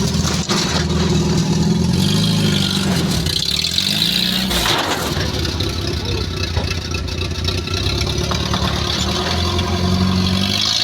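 Off-road 4x4's engine running under load and revving up and down several times while crawling over an obstacle, with a brief rushing sound about halfway through.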